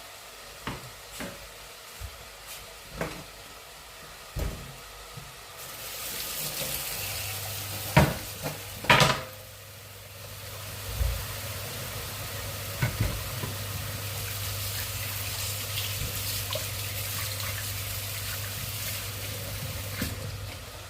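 Food sizzling in a pan, with scattered knocks of utensils on cookware and two loud clatters about eight and nine seconds in. The sizzle starts a few seconds in and stops shortly before the end.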